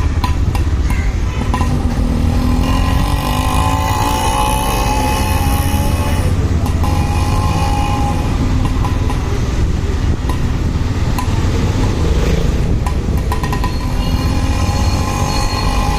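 Motorcycle riding on the road: a steady rush of wind and engine noise, with faint whining tones that come and go over it.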